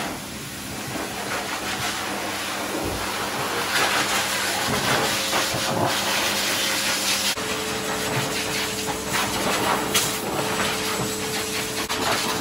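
Pet grooming hose dryer blowing air from its nozzle onto a puppy's fur: a steady loud rush of air over a motor hum that steps down slightly in pitch about seven seconds in.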